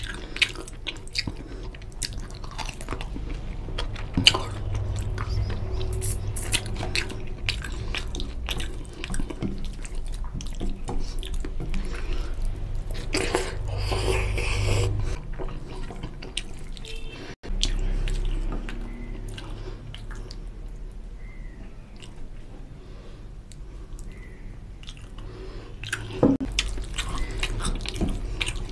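Close-miked chewing and wet mouth sounds of a person eating mutton curry and rice by hand, full of small irregular smacks and clicks, with fingers squelching through the rice and gravy between mouthfuls.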